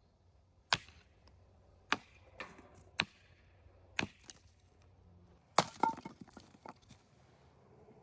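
Firewood being broken up: sharp woody cracks and knocks roughly once a second, then a quick flurry of smaller cracks and splintering a little past the middle.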